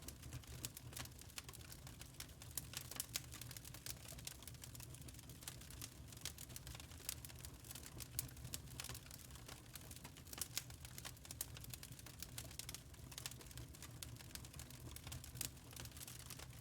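Wood fire crackling in a fireplace: dense, irregular small pops and snaps over a faint low hum.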